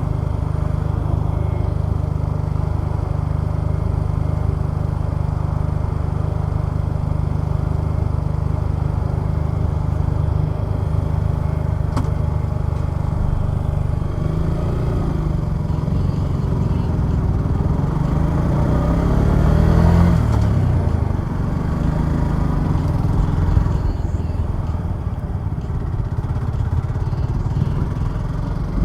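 Suzuki Gixxer 150SF's small single-cylinder four-stroke engine running steadily while riding. About two-thirds of the way in, an engine note sweeps up and down in pitch.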